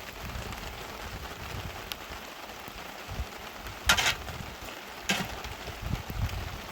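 Rain falling steadily with an even hiss, broken by a sharp, loud noisy burst about four seconds in and a smaller one about a second later.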